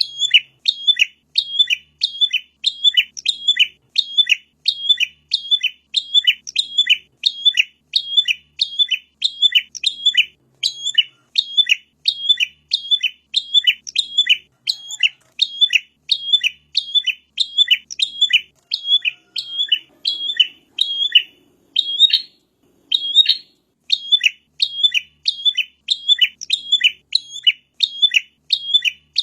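Prenjak (prinia) calling: a steady, fast series of sharp, high chirps, about two a second, with a brief break a little past two-thirds of the way through.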